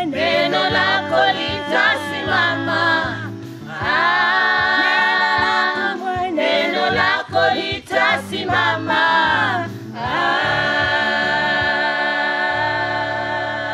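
Choir singing a gospel song in Swahili over a steady low accompaniment, with long held notes in a closing phrase.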